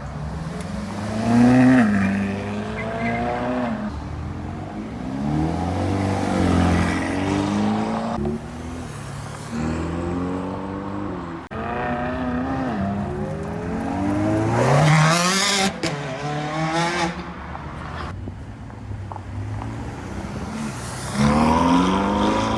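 Ferrari sports car engines revving and accelerating away one after another, the pitch climbing sharply and dropping with each blip and gear change. The loudest revs come about a second and a half in, around two-thirds through, and again near the end.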